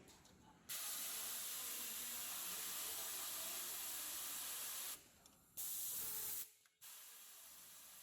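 Loud, even hiss of compressed air from the hemming machine's pneumatic system. It switches on abruptly about a second in, breaks off briefly around five seconds, comes back, then cuts off sharply and leaves a quieter steady hiss.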